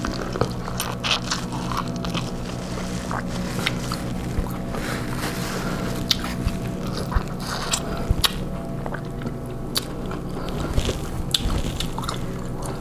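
Biting and chewing corn on the cob: irregular crisp clicks and crunches over a steady low hum.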